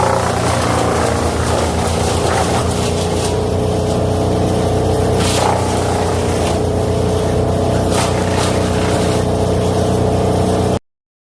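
Vermeer wood chipper running steadily at full speed, chipping sawmill slabs, with a few sharp cracks as wood goes through. It cuts off suddenly near the end.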